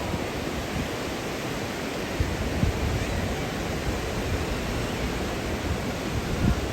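Steady rushing noise of sea surf mixed with wind buffeting the microphone, with a few low gusts about two seconds in and again near the end.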